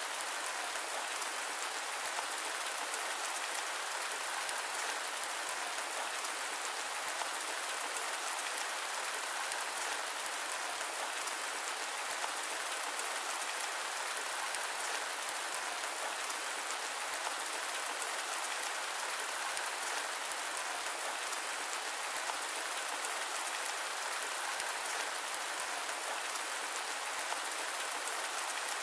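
Steady rain, an even hiss that does not change, with no thunder and no low rumble.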